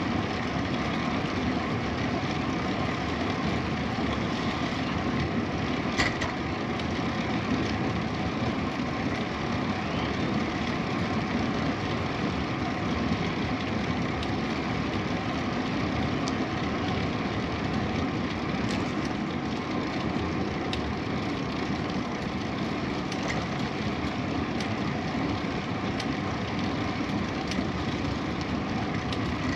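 Steady rushing wind and tyre rumble from a bicycle riding along a paved cycle path, with a few small ticks.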